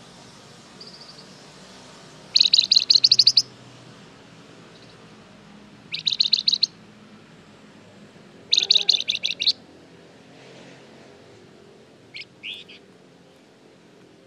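Flamboyan songbird singing in three quick chattering trills of rapidly repeated high notes, each about a second long, with a couple of shorter calls between, over a faint steady hiss.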